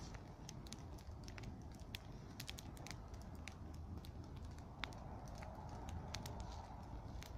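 Bonfire of dry garden grass crackling, with many irregular sharp pops and snaps over a low steady rumble of burning.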